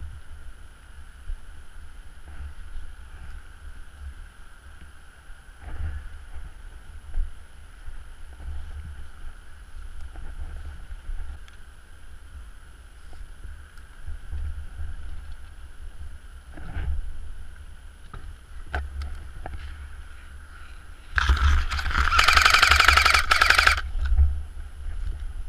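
Low rumble of wind and handling on a GoPro camera's microphone, with a faint steady hum, a few scattered clicks, and a loud noisy burst lasting about three seconds near the end.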